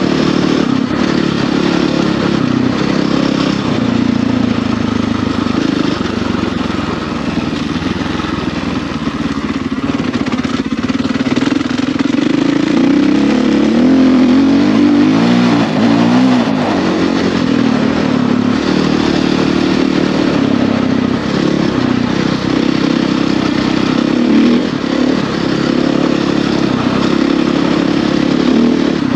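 Husqvarna FE450's single-cylinder four-stroke enduro engine running under way on a trail ride, revs rising and falling with the throttle, the pitch wavering up and down most around the middle.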